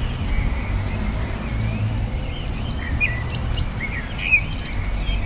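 Birds calling with wavering, twittering chirps, growing busier about three seconds in with a loud burst of calls just past four seconds, over a steady low rumble.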